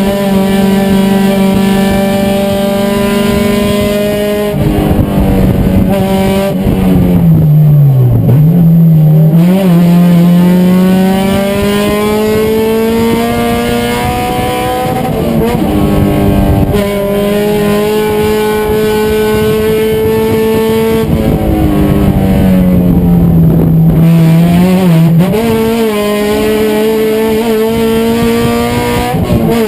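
Race car engine at high revs, holding a steady high pitch, then dropping twice under braking with quick throttle blips on the downshifts and climbing again through the gears.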